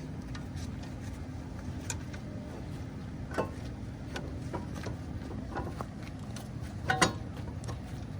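Scattered sharp metal clicks and knocks of hand tools on the brake caliper and its bolts, the loudest about seven seconds in, over a steady low hum.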